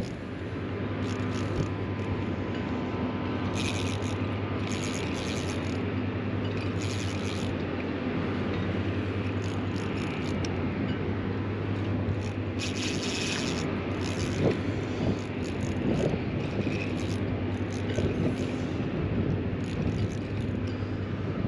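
Steady wind rumble on the microphone, with several short hissy bursts over it.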